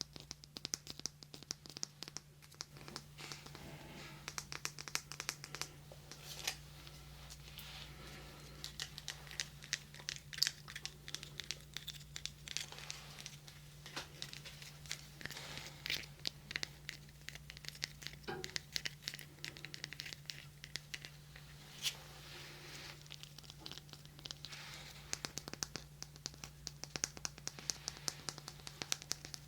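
Close-miked ASMR rubbing and scratching on a binaural microphone: a dense, irregular stream of soft crinkly crackles and scratches, with a steady low electrical hum underneath.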